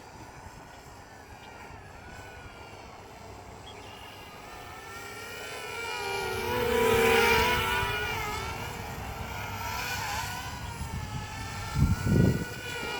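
DJI Spark quadcopter's propellers whining, several pitches wavering up and down as it manoeuvres. The whine grows louder from about five seconds in as it comes closer. A couple of brief low thumps come near the end.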